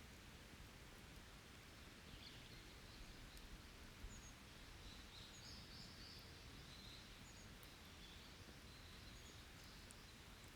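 Faint forest ambience: distant birds calling in short, high chirps through the middle, over a low steady background noise, with a few faint ticks.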